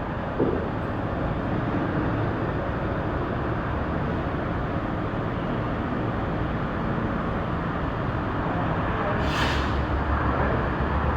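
Steady running noise of a heavy vehicle, with a short hiss of air about nine seconds in.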